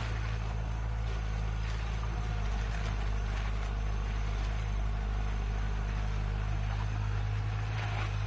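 An engine of heavy farm machinery running steadily, with a deep, even hum that does not change.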